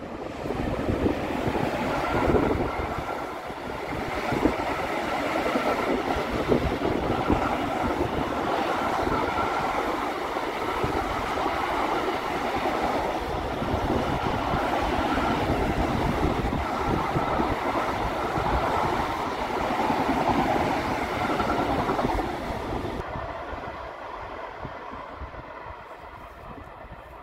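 Long container freight train hauled by a Class 187 electric locomotive rolling past close by: a steady, loud rolling noise of the wagons' wheels on the rails. After about 23 seconds it gives way to a quieter, more distant train sound.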